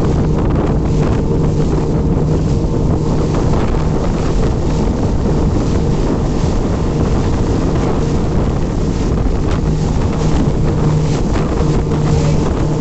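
Motorboat engine running steadily with a constant low hum, with wind buffeting the microphone.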